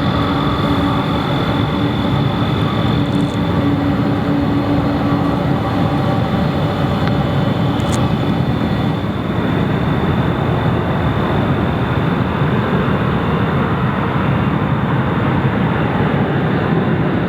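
Jet airliner engines, loud and steady, with a whine that fades out over the first few seconds, leaving a steady rumble.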